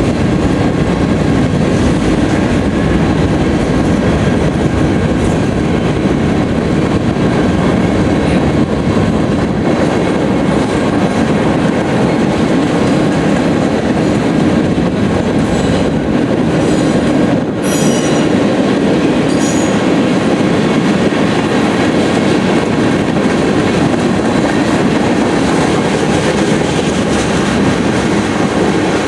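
Freight cars of a BNSF mixed freight train rolling past, a loud steady rumble of wheels on rail. Brief high-pitched wheel squeals come about two-thirds of the way through.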